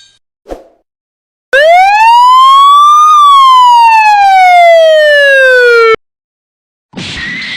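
Siren sound effect: one loud wail that rises in pitch for about a second and a half, then falls for about three seconds and cuts off suddenly.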